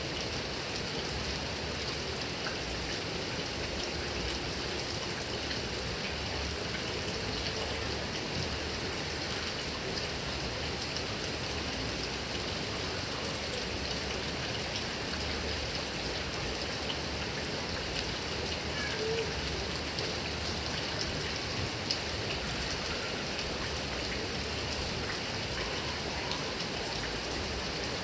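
Heavy rain falling steadily on grass and trees, a dense even hiss with scattered individual drop ticks.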